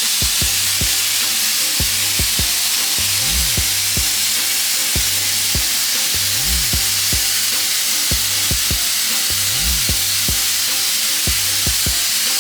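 Sandblaster blasting, a loud continuous hiss, under background music with a steady beat and deep bass notes.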